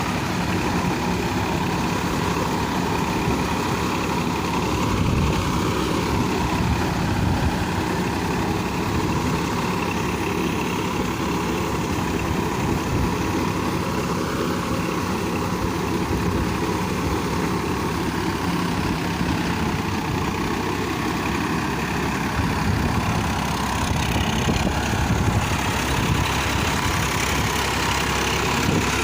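Farmtrac 45 EPI tractor's three-cylinder diesel engine running steadily under load while driving a rotavator through a puddled paddy field.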